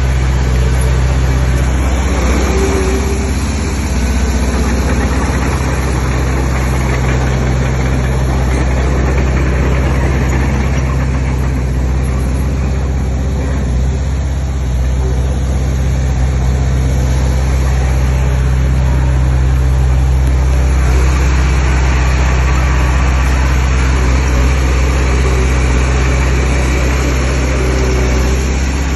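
Heavy diesel engine of an earthmoving machine running steadily at a constant speed.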